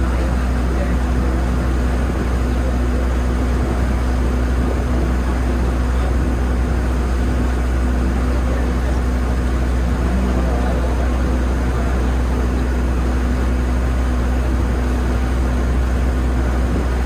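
Passenger boat's engine running steadily under way, a constant low drone.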